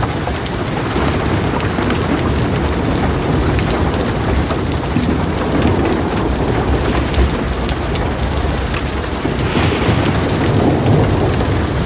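Heavy rain pattering steadily on a metal roof over a low, continuous rumble of thunder, the rain hiss swelling briefly about nine and a half seconds in.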